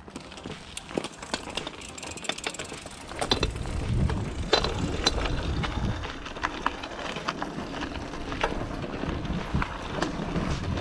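Bicycle being ridden over rough ground, its parts rattling and clicking over bumps. From about three seconds in, a low wind rumble on the camera's microphone builds under the rattling.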